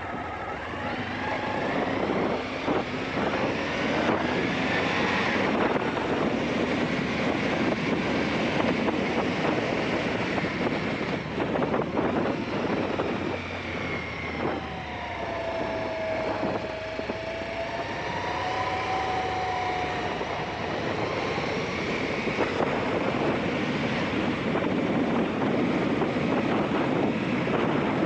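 Aprilia Shiver 750 motorcycle's V-twin engine running on the move, its note rising and falling for several seconds about halfway through. Heavy wind rush on the microphone covers most of it.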